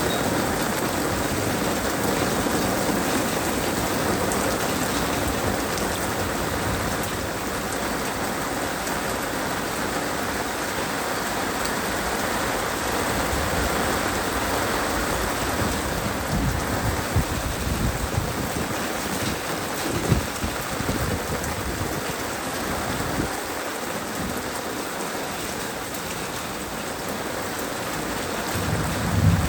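Heavy rain falling steadily in a thunderstorm, with low rumbles of thunder, the strongest building near the end.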